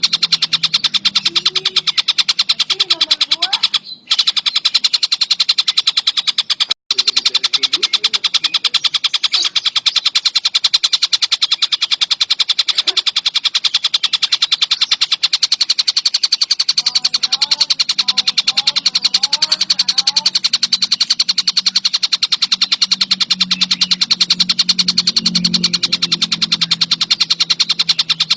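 Tengkek buto kingfisher calling in a fast, continuous rattling chatter of rapid high-pitched pulses, cutting out briefly twice in the first seven seconds.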